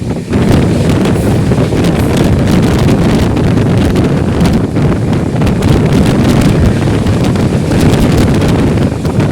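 Express train running at speed, a loud steady rushing rumble with wind buffeting the microphone and crackling throughout.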